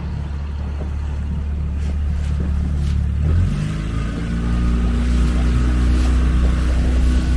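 Motorboat engine running steadily, its note shifting and rising slightly about three seconds in.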